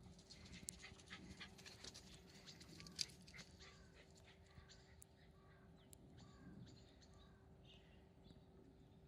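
Faint scuffling and clicking of Shiba Inu dogs romping, with a sharp tick about three seconds in; the scuffling thins out after about four seconds.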